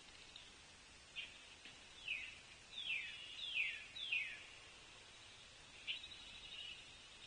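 Wild songbirds singing: a series of quick whistled notes that each slide down in pitch, about half a second apart, then a buzzier run of notes near the end, over faint outdoor background hiss.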